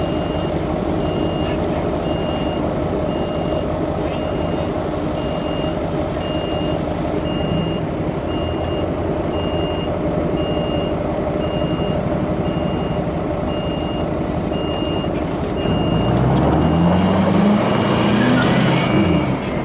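A vehicle reversing alarm beeps steadily and evenly over diesel engines running under load during a vehicle recovery. Near the end an engine revs up, its pitch climbing and then dropping.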